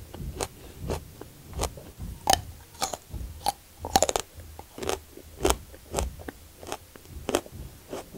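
Close-miked chewing of raw aloe vera leaf, a string of sharp mouth clicks about twice a second.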